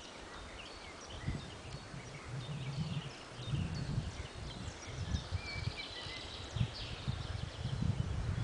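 Forest birds chirping and calling, many short high notes overlapping throughout. Underneath are irregular low thumps and rumbles, which are the loudest part and grow stronger toward the end.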